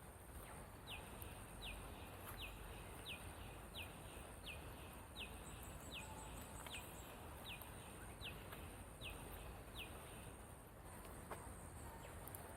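A bird calling a long, even series of about thirteen short down-slurred whistles, a little under one a second, stopping near the end. A steady thin high insect whine runs underneath.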